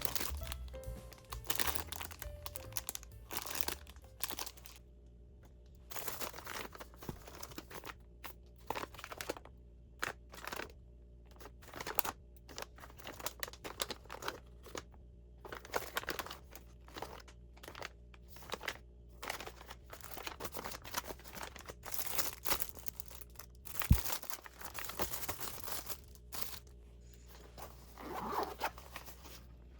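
Irregular short bursts of rustling and crinkling, the sound of packaging or wrapping being handled, over soft background music. A sharp click about 24 seconds in is the loudest sound.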